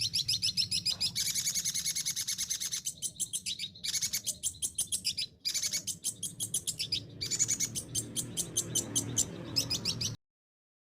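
Long-tailed shrike (cendet) singing a rapid, high chattering song of repeated notes, about eight to ten a second, with brief pauses. It is a mimicking song bird, and the song stops abruptly about ten seconds in.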